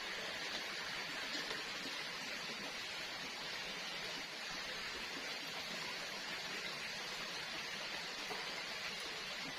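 Steady, even hiss of forest ambience with no distinct events.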